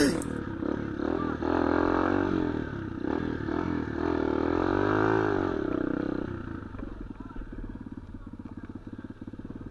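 Small off-road motorcycle engine revving up and down several times, then dropping back to a fast, even idle about six seconds in.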